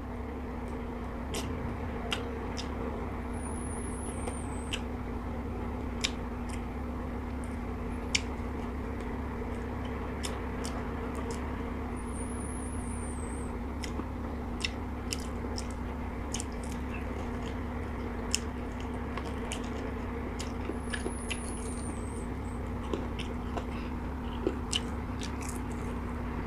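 Close-miked chewing and biting of crispy fried chicken wings, with sharp crunchy clicks scattered throughout, over a steady low hum.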